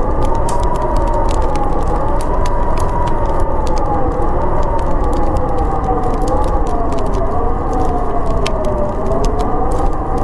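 Snowstorm wind howling with a slowly wavering, moaning pitch over a low rumble, mixed with a wood fire crackling and popping many times.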